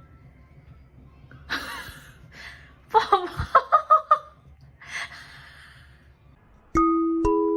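A person laughing: breathy gasps and a quick run of six or seven short 'ha' pulses. Near the end, tinkling mallet-percussion music like a glockenspiel or marimba starts.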